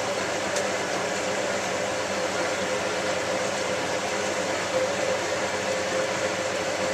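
Hotpoint 9534A washing machine draining its wash water while the drum turns. A steady hum from the motor and drain pump with water rushing and swishing inside the drum.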